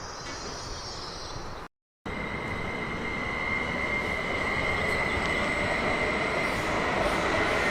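A train running along the track, its noise building steadily after a brief cut to silence about two seconds in, with a steady high-pitched squeal over the rumble.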